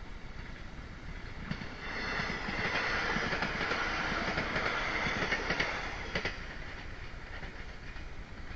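A train going by, its wheels clattering rapidly over the rails, swelling up about a second and a half in and dying away about six seconds in, over the steady noise of the ride.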